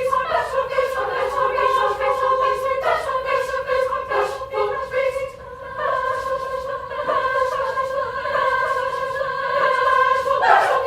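High school choir singing long, held chords, with a short break about five seconds in.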